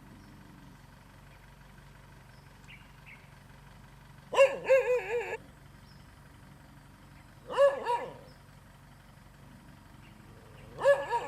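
A dog barking in three short bouts, about 4.5, 7.5 and 11 seconds in, over a faint steady low hum.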